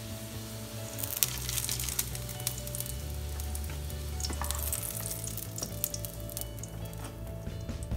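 Patties sizzling and crackling in hot oil in a nonstick frying pan, with sharp pops that grow busier from about a second in.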